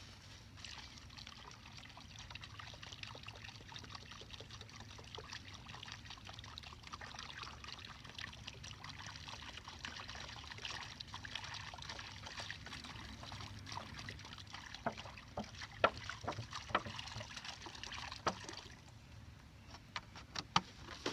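Water pouring steadily from a gallon jug into a makeshift sapling-and-leaf rain catcher, filling it to test how much it holds. The pour stops a couple of seconds before the end, and several sharp knocks and taps come in the last few seconds.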